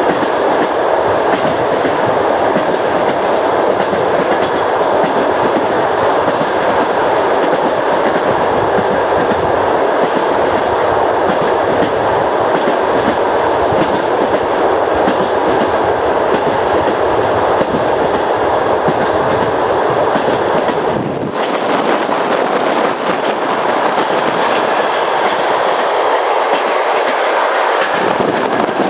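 Train wheels rolling over jointed rails, a steady loud rush of running noise with the repeated clicking of the rail joints. About two-thirds of the way through, the deep rumble underneath thins out while the clatter carries on.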